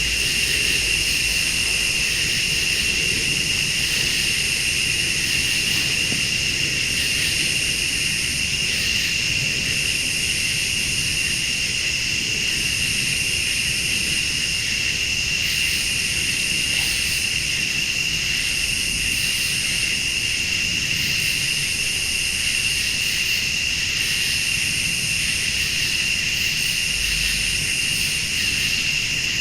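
Night insect chorus of crickets and late-summer bugs: a constant high trill, with a still higher insect buzz switching on and off every second or two, over a low steady rumble.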